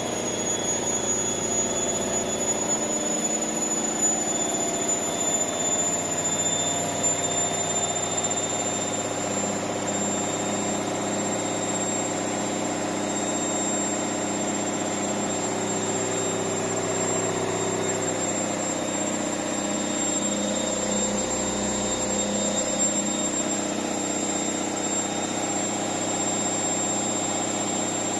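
Candy Smart Touch 6 kg washing machine on its spin cycle, the drum turning at a steady speed with a constant hum and a thin high whine. The freshly serviced bearings give no drone, and the machine runs smoothly without knocking or jerking.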